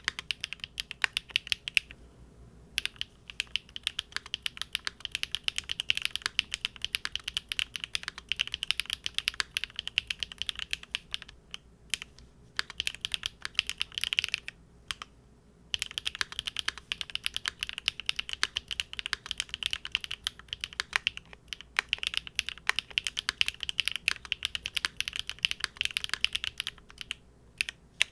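Continuous fast typing on a Big Whale custom mechanical keyboard fitted with GEON Raw Zero switches on a polycarbonate plate: a dense run of keystroke clacks with a few short pauses, one at about two seconds in and a longer one around the middle.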